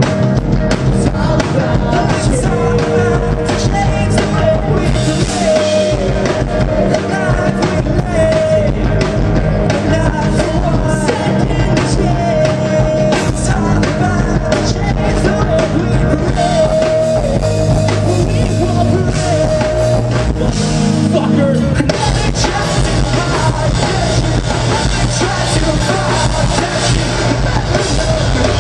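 Live rock band playing a song: drum kit, guitars and bass under a sung lead vocal, with a change of section about three-quarters of the way through.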